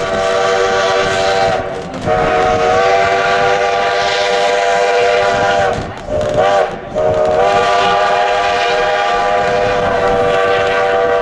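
Steam locomotive's chime whistle sounding a chord of several notes in a long, long, short, long pattern: the signal for a grade crossing.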